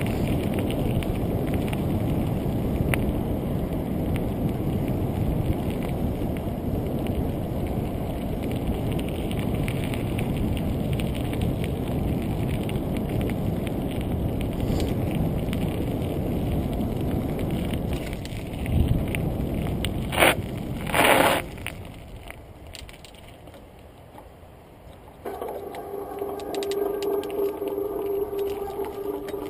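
Bicycle ride recorded on a GoPro Hero2's microphone: wind rushing over the mic and tyre rumble, with two short loud bursts a little after twenty seconds in. It then drops quieter, and about four seconds later a steady mechanical whir from the bike's drivetrain starts.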